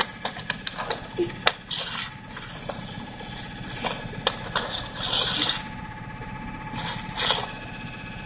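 A steady whirring vibration of unknown origin, which sounds like a VHS tape rewinding, coming from behind a TV stand near the floor, with scattered clicks, rubs and scrapes over it.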